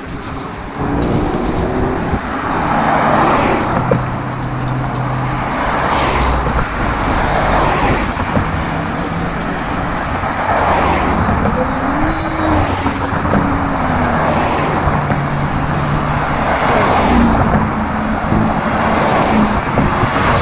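Road traffic: car engines and tyre noise, with vehicles passing every few seconds.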